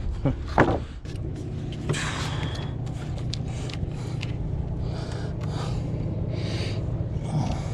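A man breathing hard in short gasps while straining to lift and hold a heavy timber ledger, over a steady low hum.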